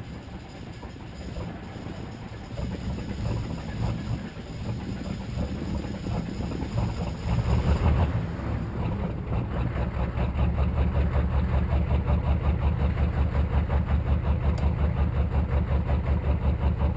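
Diesel truck engine being cold-started: an uneven low rumble that builds, catches with a surge about eight seconds in, then settles into a steady, rhythmic idle pulsing about four to five times a second.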